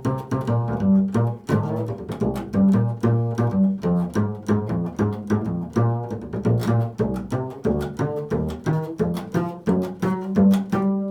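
Improvised music: a low-pitched plucked string instrument playing a quick, unbroken run of notes, several a second.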